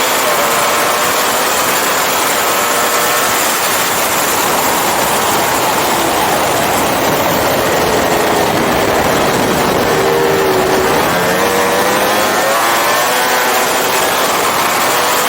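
Ducati Panigale racing motorcycle's engine at speed on track, heard from an onboard camera through heavy wind rush. The engine note falls over several seconds past the middle, then climbs again.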